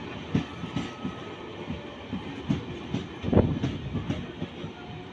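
Indian Railways express train running on the track, its wheels clattering over rail joints in a quick, uneven run of knocks, with one heavier thump about three and a half seconds in.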